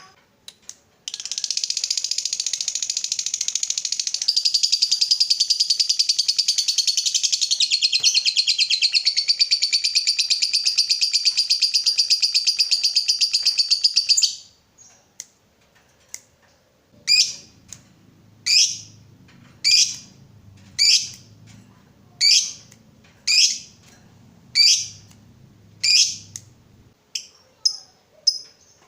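Lovebird giving a long ngekek, a rapid high chattering trill held for about thirteen seconds. After a short pause it switches to single sharp calls about one a second, then quicker short chirps near the end.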